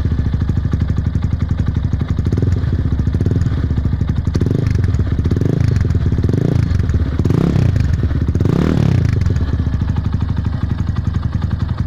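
Engine exhaust through a 100×300 straight-through muffler, idling and blipped by the throttle about once a second, seven or so short revs, then settling back to a steady idle near the end.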